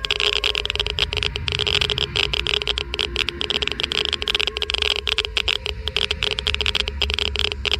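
Geiger counter crackling with dense, irregular clicks, many per second, each click one ionizing particle registering in the tube: a high count rate. A steady low rumble runs underneath.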